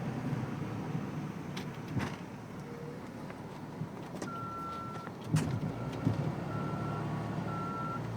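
The 2005 Dodge Ram 2500's Cummins turbodiesel running low and steady, with a few knocks and clunks. About four seconds in, a reversing beeper starts: one long tone, then short beeps a little under once a second.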